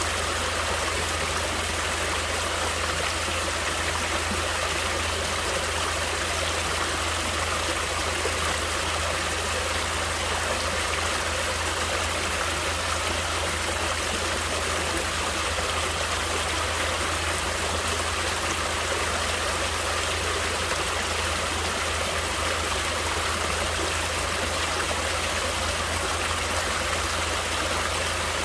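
Natural running water of a stream flowing over rocks, a steady, unchanging rush.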